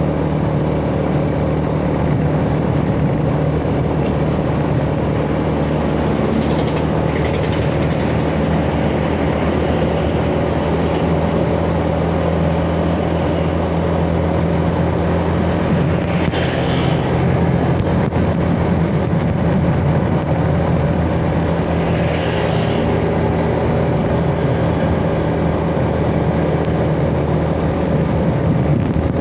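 Yamaha Jupiter Z's 110 cc four-stroke single-cylinder engine running steadily at cruising speed, heard from the rider's seat. Three brief hissing rushes rise over it, about a quarter, halfway and three-quarters of the way through.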